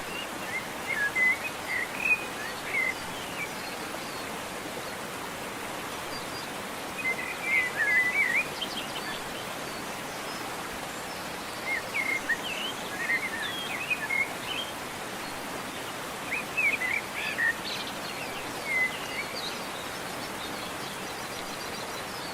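Songbirds singing short bursts of quick chirping phrases, four times, over the steady rush of a waterfall.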